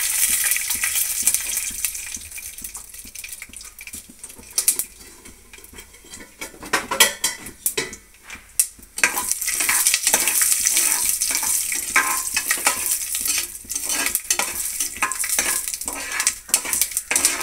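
Peanuts frying with mustard seeds in hot oil in an aluminium pressure cooker, sizzling, with a metal spoon clinking and scraping against the pot. The sizzle dies down in the first few seconds and comes back strongly about nine seconds in as the peanuts are stirred.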